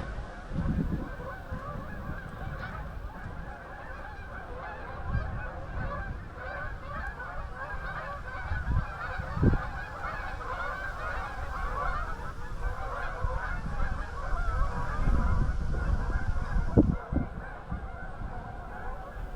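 A flock of farm poultry calling together in a steady, dense chatter, with honking calls mixed in.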